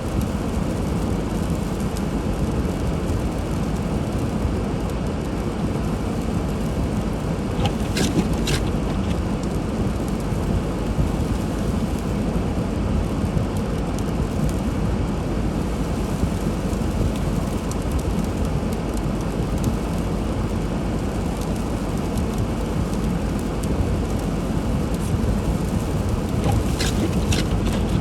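Steady road noise of a car driving on snowy, slushy streets, tyres hissing through slush over a low rumble. A couple of brief high squeaks come about eight seconds in and again near the end.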